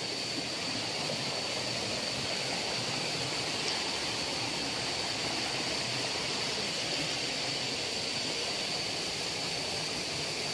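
Steady rush of water from a waterfall and its stream, with a thin, steady high-pitched tone over it.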